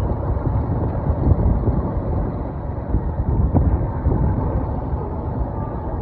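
Road vehicle driving along: a steady low engine and road rumble.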